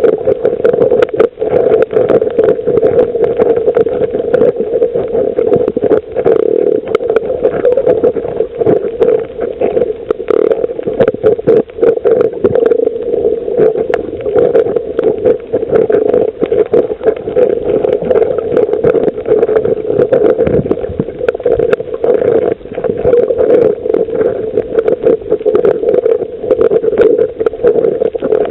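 Underwater sound on a coral reef: a steady hum with a dense, continuous crackle of tiny clicks over it.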